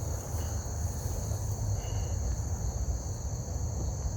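Insects, likely crickets, chirring in a steady high-pitched drone, over a low rumble.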